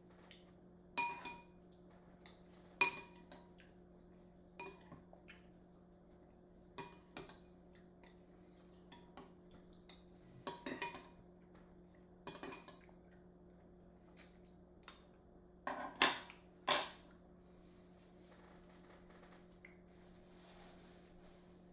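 A spoon clinking against a dish while someone eats, about a dozen short, sharp clinks at irregular intervals, with a quick cluster of knocks near the end, over a faint steady hum.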